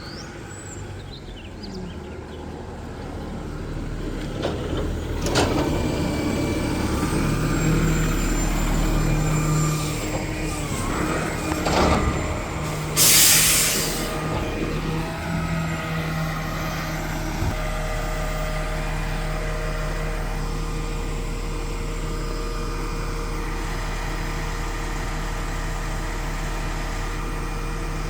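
Garbage truck's engine running up under load while its lifting gear works, with a couple of sharp metal clanks and one loud burst of air-brake hiss about halfway through. The engine then settles into a steady idle.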